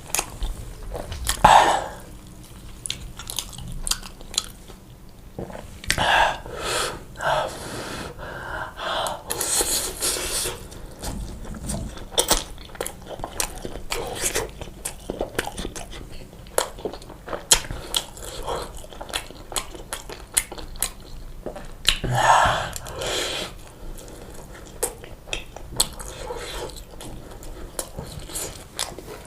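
Close-miked eating sounds: a person chewing pizza with wet, irregular clicks and smacks, a few louder bites scattered through.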